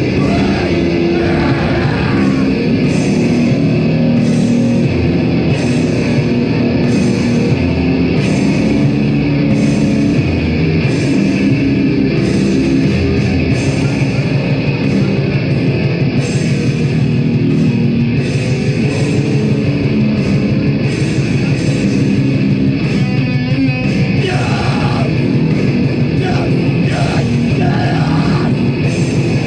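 A heavy band playing loud live music: distorted guitars, bass and drums in a dense steady wall of sound, with regular cymbal hits.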